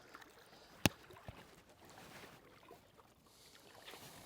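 Small knocks and handling noises on a fishing kayak over faint water and wind noise, with one sharp knock a little under a second in and a softer one shortly after.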